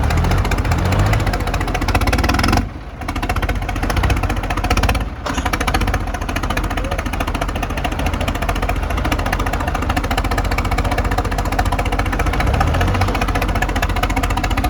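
Diesel tractor engine running steadily, with a dense, even firing beat. The sound drops away briefly twice in the first five seconds.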